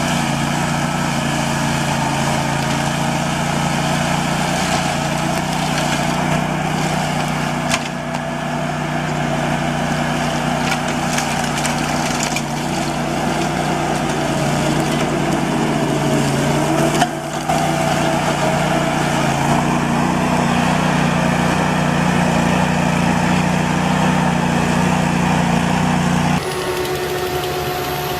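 Heavy machinery running steadily with an engine hum and some cracking or crunching noise. It cuts suddenly near the end to a different machine with a higher, thinner hum.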